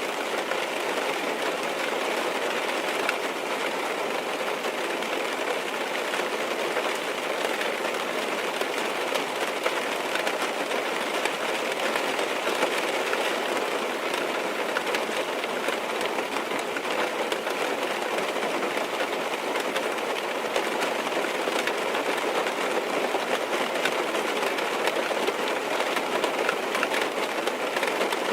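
Steady rain on a car's windows and roof: an even hiss of rain with many small drop taps scattered through it.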